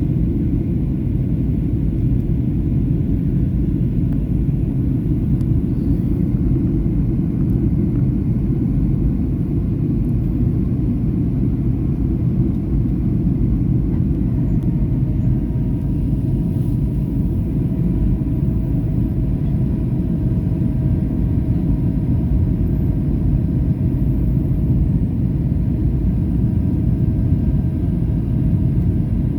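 Steady low cabin rumble of a Boeing 737-800 in flight, airflow and CFM56 engine noise heard from inside the passenger cabin. About halfway through, a faint steady hum joins it.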